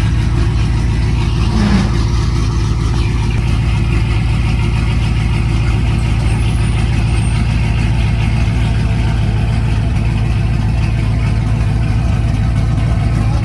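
Vehicle engine running with a steady low drone, and a short knock about two seconds in.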